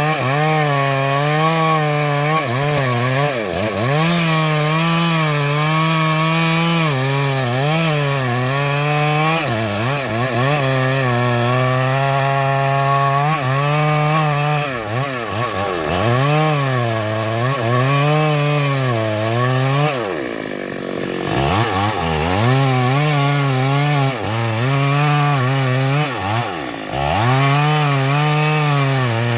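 Stihl MS382 two-stroke chainsaw cutting into a large sengon trunk at high revs, its pitch repeatedly sagging and recovering as the chain loads in the wood. About twenty seconds in, the revs drop briefly toward idle, then climb back up into the cut.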